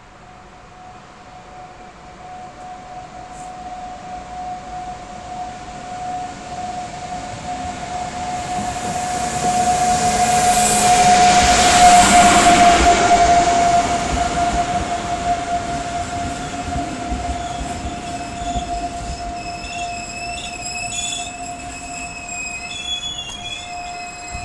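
Electric-hauled passenger train arriving at a station: the running noise builds as the train approaches, is loudest about twelve seconds in as the locomotive passes, then eases as the coaches roll by. Several high, wavering wheel and brake squeals set in over the last few seconds as the train slows, over a steady whine heard throughout.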